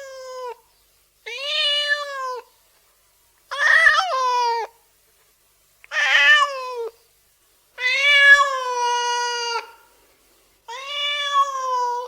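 Domestic cat meowing over and over, a new meow about every two seconds, each one about a second long. One meow near the middle is held longer than the rest.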